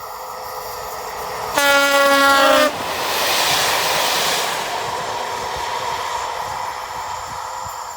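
A train horn sounds one blast of about a second, then the train passes with loud rolling noise that peaks just after the horn and slowly eases off.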